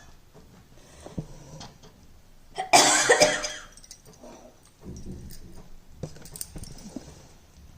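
A person coughing: a short burst of a few coughs about three seconds in, the loudest sound here, with faint knocks scattered around it.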